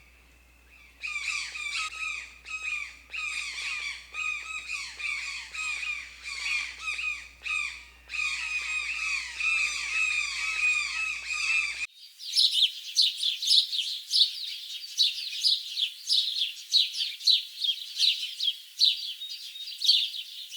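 Birds calling: a run of harsh, repeated squawks starting about a second in, then after a sudden cut a little over halfway through, rapid high-pitched chirping, several calls a second.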